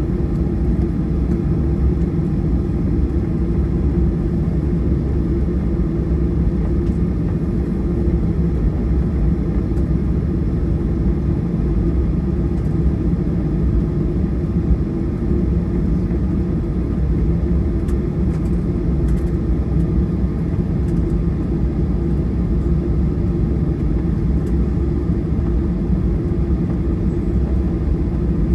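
Boeing 737-800's CFM56 jet engines heard from inside the passenger cabin: a steady, even rumble that holds at the same level throughout.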